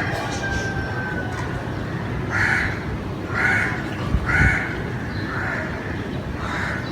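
A crow cawing about five times, roughly once a second, over a steady low background rumble.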